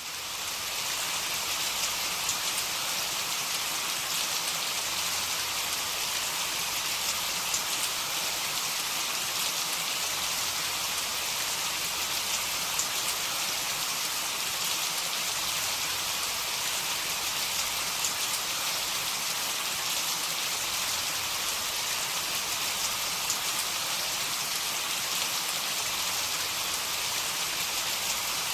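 Heavy rain falling steadily, a dense even hiss with faint individual drop ticks, fading in over the first second.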